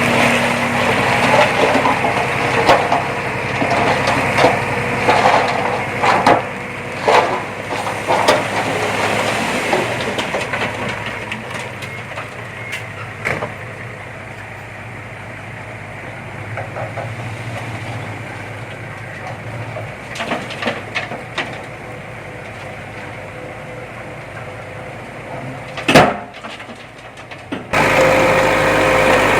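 Heavy earthmoving machine's diesel engine running under a jumble of cracks and knocks as soil, rock and wood are pushed and broken, busiest at first. One sharp, loud crack comes near the end.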